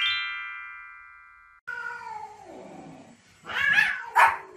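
A short chime of ringing notes fades out over the first second and a half. Then a cat gives a long meow that falls in pitch, and a small white dog barks twice, loudly, near the end.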